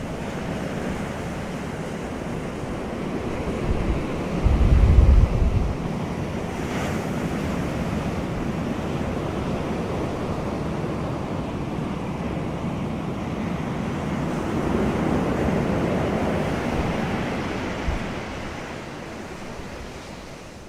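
Steady outdoor wind rush, with a gust buffeting the microphone in a low rumble about five seconds in; the sound fades out near the end.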